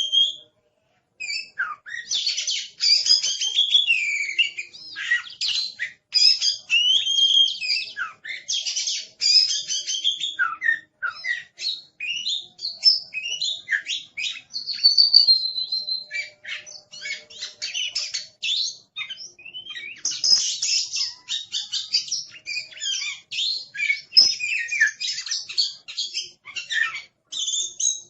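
Oriental magpie-robin (kacer) in agitated full song: a fast, unbroken stream of varied chirps, whistles and trills, pausing only briefly about a second in.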